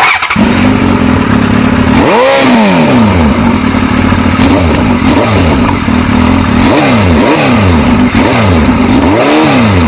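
Suzuki GSX-R1000's inline-four engine running loud through an aftermarket exhaust. The revs are blipped up and down once about two seconds in and several times in quick succession near the end.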